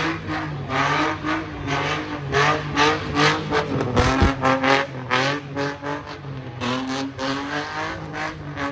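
Car engine at a sideshow revving hard over and over, its pitch rising and falling, with rough bursts of noise between revs. A brief low thump about four seconds in.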